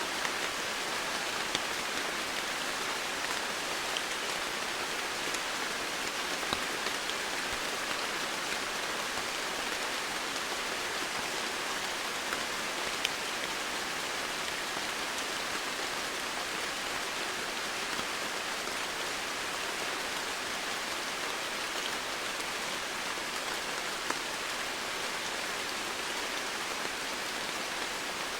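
Steady rain, with scattered individual drops standing out as faint ticks.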